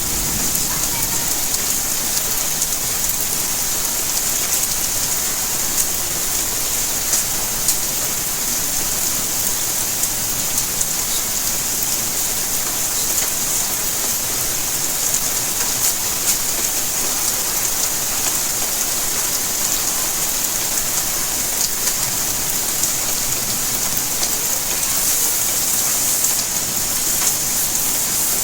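Steady rainfall, a dense even hiss with many small drops pattering on surfaces.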